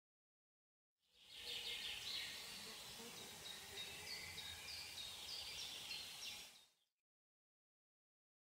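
Quiet nature ambience: small birds chirping in short repeated notes over a steady background hiss, fading in about a second in and fading out near the end.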